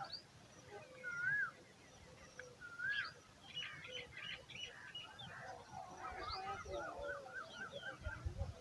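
Birds calling: repeated whistled, slurred notes and higher chirps, with a quick run of short repeated notes near the end.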